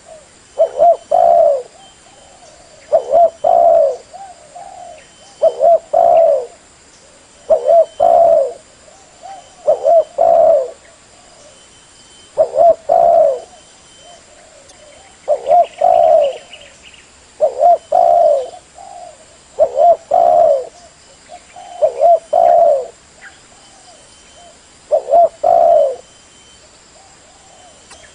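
Spotted dove (tekukur) cooing: a short phrase of low, slightly falling coos, with the last two notes loudest, repeated about every two and a half seconds, with faint softer coos between some phrases.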